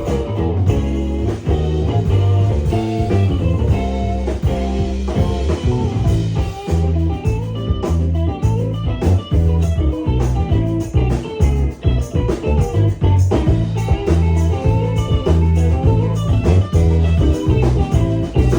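A live rock band playing an instrumental passage: electric guitar over bass and drum kit, with no vocals.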